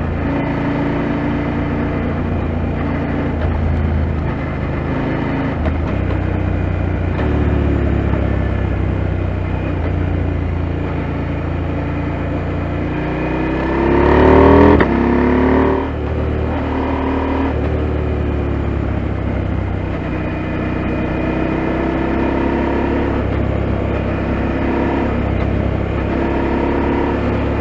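KTM 890 Adventure's parallel-twin engine running under way at steady revs, with a brief louder rise and fall in engine pitch about halfway through.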